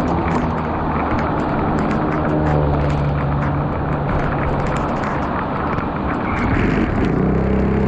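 Heavy rain pouring onto a flooded street: a loud, steady hiss with scattered drop hits. A low engine hum from a motor vehicle runs underneath and grows louder near the end.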